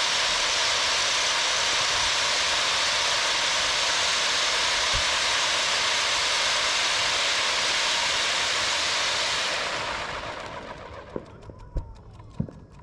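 Hypnotica firework fountain spraying with a steady loud hiss that dies away about ten seconds in, followed by a few faint pops.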